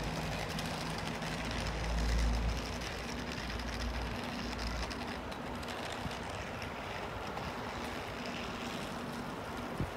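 Train passing on the line: a steady rumble with a low hum that is loudest about two seconds in and fades away after about five seconds.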